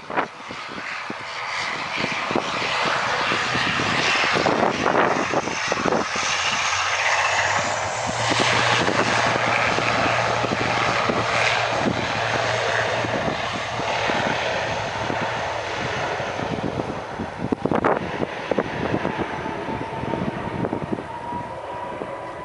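ATR 72-500 turboprop airliner's twin Pratt & Whitney PW127 engines and propellers at takeoff power, a steady drone with a low hum that eases off over the last few seconds as the aircraft draws away.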